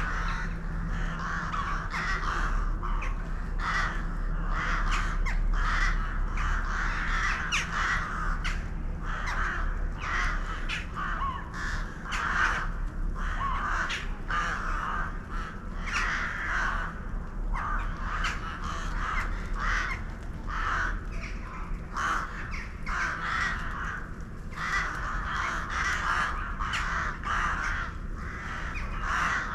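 A flock of birds calling continuously, many harsh calls overlapping, over a steady low hum.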